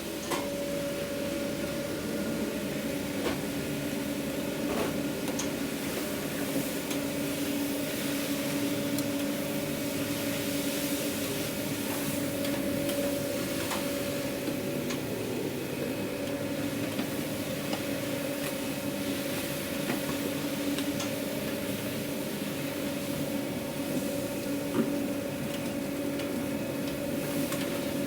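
Steady hum of food-truck kitchen machinery, with scattered clicks and knocks of containers and utensils being handled.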